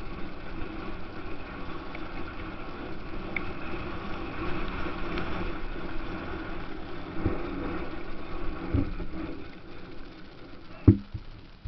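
Motocross bike engines running steadily. A single sharp knock comes near the end.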